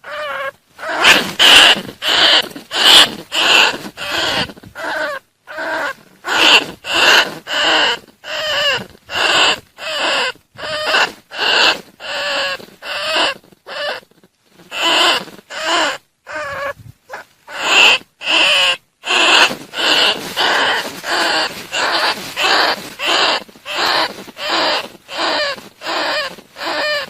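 Bandicoot rat calls, a decoy recording used to lure bandicoot rats, repeating steadily at about one and a half calls a second, with a couple of brief pauses.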